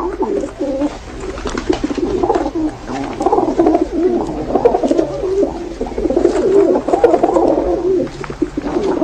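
Several birds calling over one another without a break, in low wavering calls.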